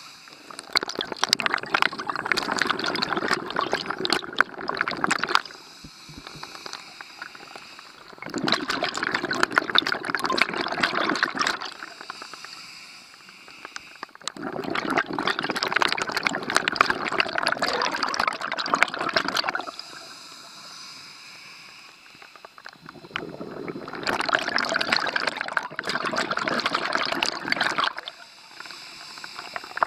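A scuba diver's breathing heard underwater: a bubbling, crackling rush of exhaled bubbles from the regulator exhaust for four or five seconds, then a quieter inhale, repeating four times.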